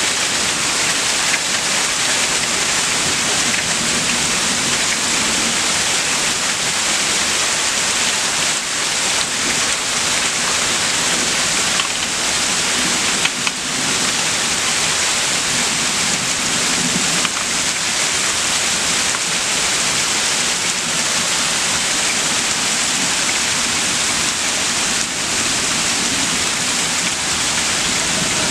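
Heavy rain from a severe thunderstorm falling steadily, a dense, even hiss.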